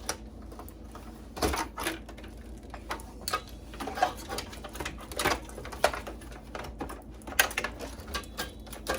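Irregular clicks, taps and clatter of hands working on a Dell Dimension 9100 desktop computer, its metal and plastic parts knocking as it is taken apart for scrap. The sharpest knocks come about a second and a half in and again about seven and a half seconds in.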